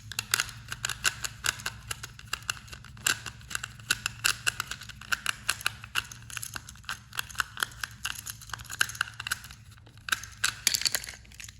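Irregular plastic clicks and rattles from handling a small battery-powered toy train engine, opening it and working its battery and switch, over a steady low hum.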